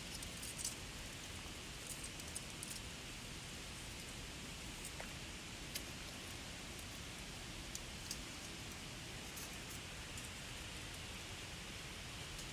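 Steady rushing of a flowing river, with a few faint, sharp clicks scattered through it.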